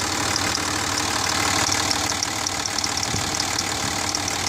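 Cummins 5.9-litre inline-six turbo diesel in a 2006 Dodge Ram 2500 idling, with a little ticking repeating several times a second over the engine's steady running. The owner is unsure whether the tick comes from the valve lash or the injectors.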